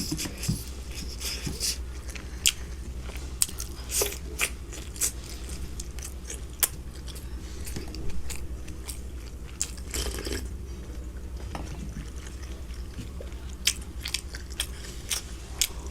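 A person chewing and biting veg momos, with scattered short mouth clicks over a steady low hum.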